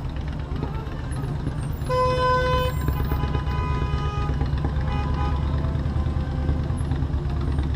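Motorcycle engine running steadily in city traffic. A vehicle horn honks for under a second about two seconds in, followed by a few seconds of fainter pitched tones.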